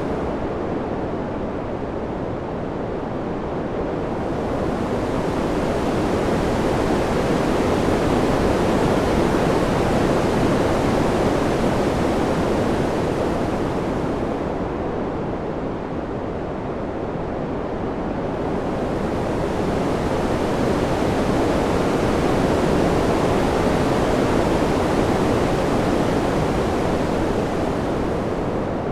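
Ambient wind sound, a steady rushing that slowly swells and eases twice, growing brighter and hissier at each swell.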